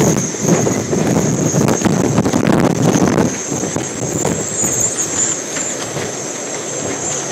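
Hurricane-force wind gusting and buffeting the microphone over a steady high whistle, strongest in the first few seconds and easing a little after.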